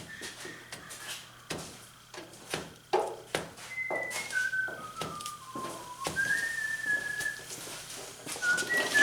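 A person whistling a slow tune, held notes stepping downward, with scattered sharp clicks and knocks in the first few seconds.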